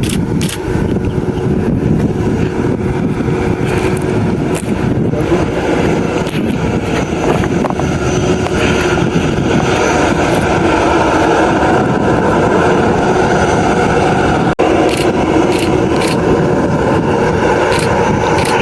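Loud, steady jet aircraft engine noise, growing stronger about halfway through.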